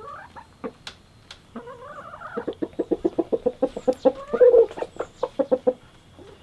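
Bird calls: a few upward-sliding notes, then a fast run of short repeated notes, about eight a second, for some three seconds, loudest near the end of the run.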